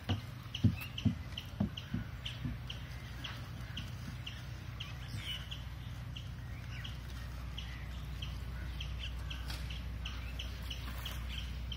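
A bird repeating a short high chirp, two or three times a second, over a steady low hum. A few sharp knocks in the first two seconds are the loudest sounds.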